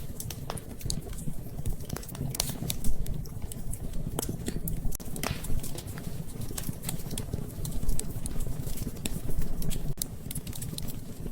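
Wood fire crackling, with irregular sharp pops and snaps, a few louder ones, over a low steady rumble of the flames.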